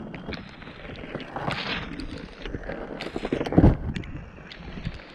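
Muffled knocks, clicks and rattles of scrap being handled in a dumpster, with one heavier thump about three and a half seconds in, heard through a waterlogged GoPro microphone.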